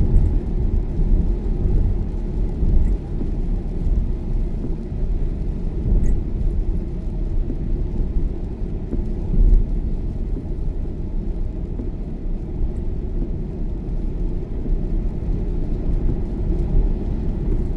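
Steady low rumble of road and tyre noise inside a Tesla electric car's cabin at motorway speed, with no engine note.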